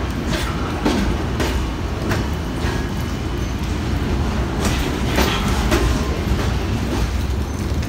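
Freight train of boxcars rolling past close by: a steady low rumble of the wheels on the rails, broken by irregular sharp clicks and clanks.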